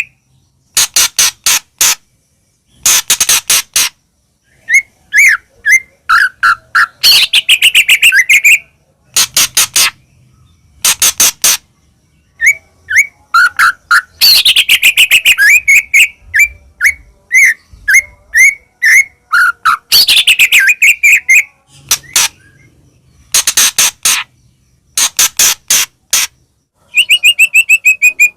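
White-rumped shama singing in phrases: rapid strings of sharp clicking notes alternating with runs of short, falling whistled notes, with brief pauses between phrases.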